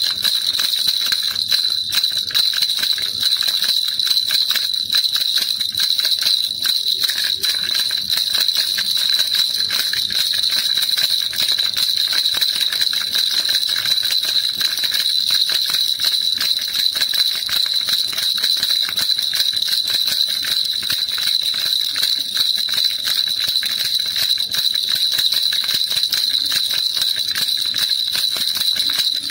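Baby rattle shaken continuously: a dense, steady jingling rattle with no pauses.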